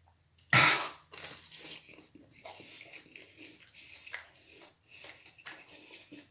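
A person chewing a mouthful of deep dish pizza close to the microphone, with soft wet smacks and clicks of the mouth. A single short, loud noise comes about half a second in.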